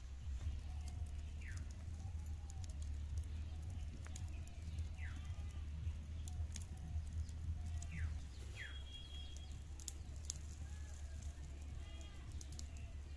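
Birds calling in the background: several short falling chirps and a run of soft rising-and-falling calls, over a steady low hum. Scattered sharp clicks and taps come and go.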